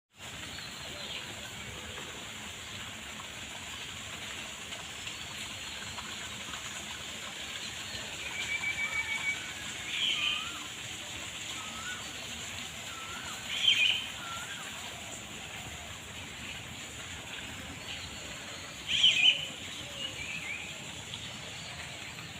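Birds calling outdoors after rain: short chirps, a brief trill and small rising notes, the loudest calls about ten, fourteen and nineteen seconds in, over a steady even hiss.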